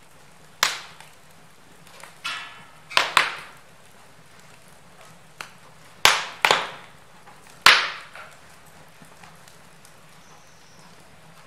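Wood fire crackling in a fireplace: irregular sharp pops and snaps from the burning logs, about seven in all, some in quick pairs, over a faint steady low hum.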